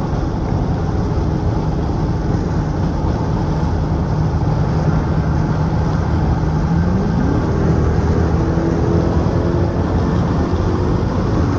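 Straight-piped Dodge Charger R/T's HEMI V8 exhaust droning steadily while driving. About seven seconds in, the revs climb quickly and then hold at a higher pitch.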